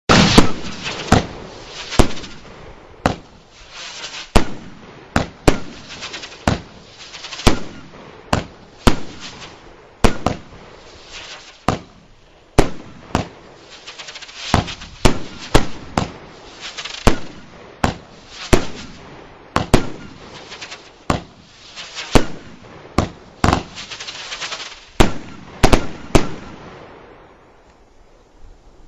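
'Hurricane' (5035) consumer firework cake firing: a long series of sharp bangs, about one to two a second, each followed by crackling, until it dies away near the end.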